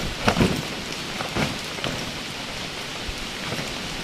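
Steady rain falling, with several sharper drop impacts standing out in the first two seconds.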